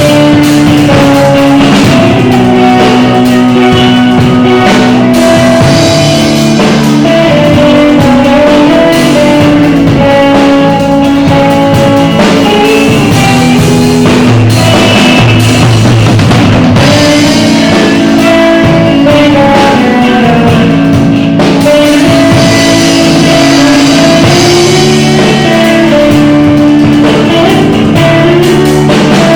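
Band playing an instrumental of a Brazilian gospel hymn: a guitar carries the melody in long held notes over a drum kit.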